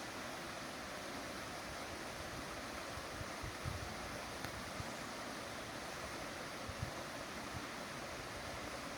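Steady rush of moving water, with a few brief low bumps about three and a half and seven seconds in.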